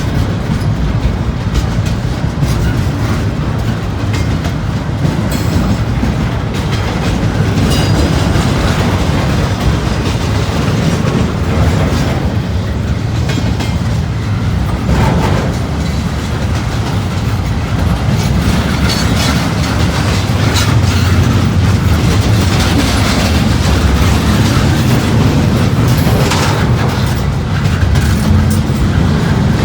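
Freight train cars rolling steadily past, the wheels clicking over the rail joints.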